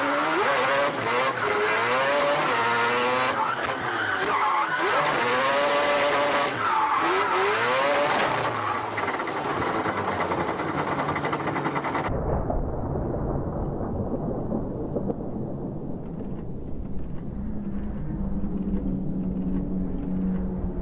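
Four-rotor 26B rotary engine of a Mazda RX-7 FD drift car, revving hard in repeated rises and falls, with tyre squeal. About twelve seconds in the sound cuts abruptly to a duller, muffled engine drone.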